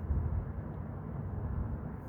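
Airbus A320-200 jet engines heard from the ground as a steady low rumble while the airliner approaches to land.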